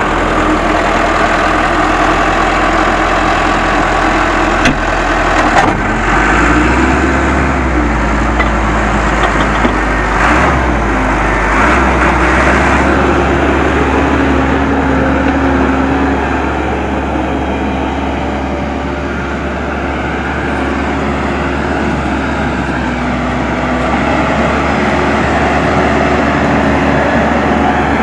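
Case 580M backhoe loader's diesel engine running while the machine works earth, its pitch shifting and rising for several seconds a few seconds in, then easing off somewhat later.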